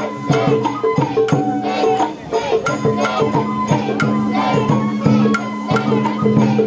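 Sawara-bayashi festival music played live: a shinobue bamboo flute melody over a steady beat of taiko drum and small hand-gong strikes.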